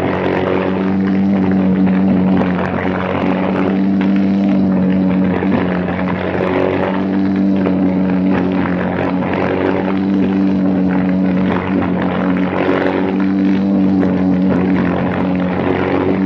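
Briggs & Stratton Animal single-cylinder four-stroke racing kart engine running hard at high revs, its pitch staying fairly steady with small dips and rises.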